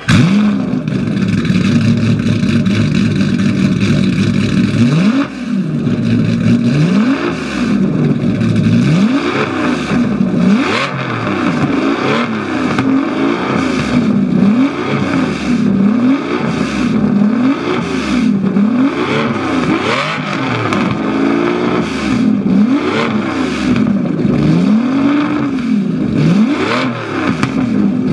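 Aston Martin V12 Zagato's V12 engine idling high just after start-up, then being blipped over and over, each rev rising and falling in pitch about every second and a half.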